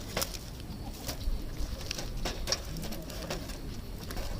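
Wood campfire crackling, with frequent sharp pops and snaps at irregular intervals.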